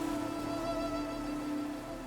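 Background music of slow sustained notes, with a bowed string part holding a note.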